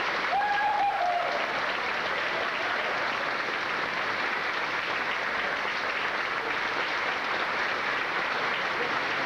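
Audience applauding steadily at the end of a song. One voice calls out briefly near the start.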